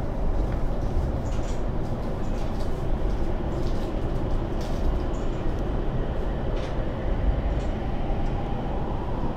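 Joban Line electric commuter train pulling out of a station, heard from inside the car: a steady low rumble from the running gear with scattered light clicks and rattles, and a faint rising tone near the end as it picks up speed.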